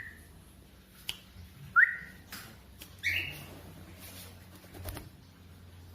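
Short rising whistles, one right at the start and another about two seconds later, used as a recall cue for a pet budgerigar. A brief, brighter chirp follows about three seconds in, with a few light clicks between.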